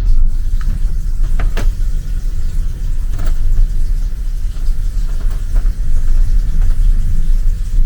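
Cruise ship cabin in heavy seas: a loud, steady deep rumble with short creaks from the cabin structure every second or two. The creaking comes either from the rough sea or from the ship's own structure, which the passenger cannot tell apart.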